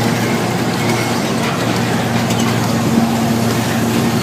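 Motorcycle engines running at a steady speed, a continuous loud drone with no revving.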